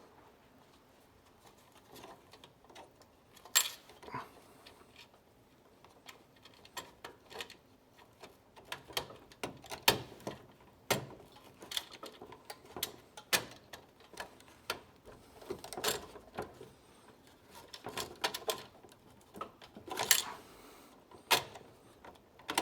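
Irregular sharp clicks and clinks of small metal parts and hand tools being handled while a locknut is fitted onto a BX cable connector; sparse at first, then coming every second or so from about eight seconds in.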